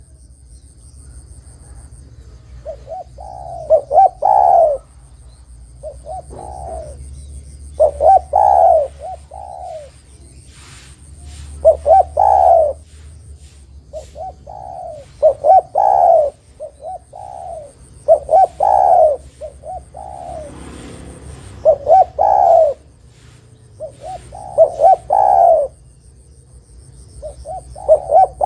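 Spotted dove (tekukur) cooing: its multi-note coo phrase repeated about every three seconds, some eight times over.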